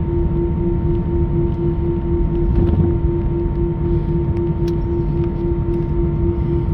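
Airbus A319 jet engines running at idle: a low rumble under a steady hum that pulses several times a second, with a fainter higher steady tone above it.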